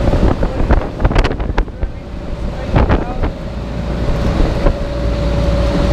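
A large air-conditioning machine, taken for some kind of chiller, running with a steady hum and a constant mid-pitched tone over a deep rumble. Wind buffets the microphone, with a few knocks about a second in and around three seconds.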